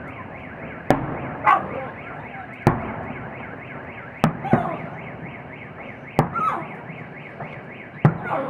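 Car alarms set off by the fireworks, wailing in a fast repeating warble, with five sharp firework bangs about every two seconds cutting through as the loudest sounds.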